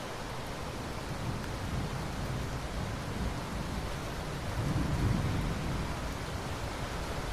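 Steady rain hiss with low rolling thunder, swelling twice and loudest about five seconds in.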